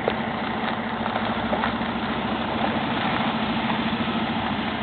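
A vehicle engine idling steadily, with an even, fast pulse.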